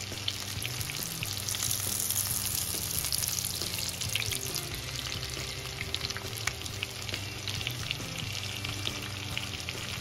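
Tortang talong (eggplant dipped in egg) frying in a pan of oil: a steady sizzle with scattered crackles and pops, over soft background music.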